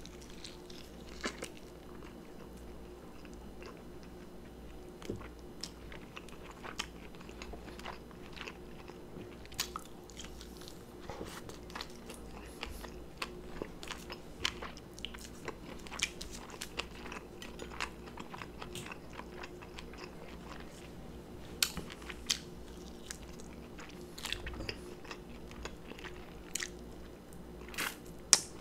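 Close-up eating sounds of a sauce-coated lollipop chicken drumstick being bitten and chewed, with irregular sharp, wet mouth clicks scattered throughout. A faint steady hum sits underneath.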